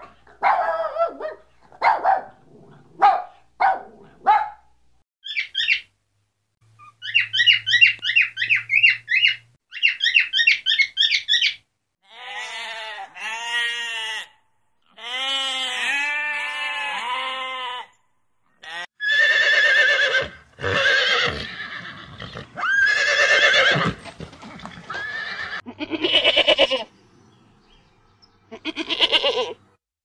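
A string of animal calls: a dog's short yelps and whimpers in the first few seconds, then a run of high, rapid chirping calls, then sheep and goats bleating, in wavering calls one after another for the second half.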